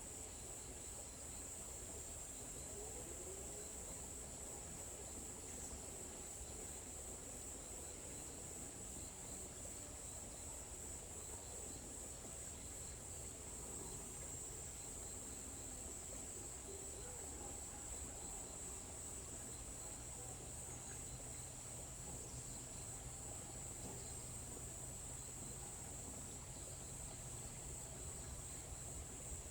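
Forest ambience: a steady, high-pitched insect chorus that keeps on without a break.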